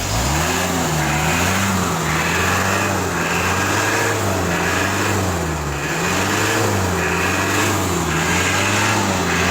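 Vehicle engine revved over and over: it jumps up from idle at the start, then the revs rise and fall about once a second.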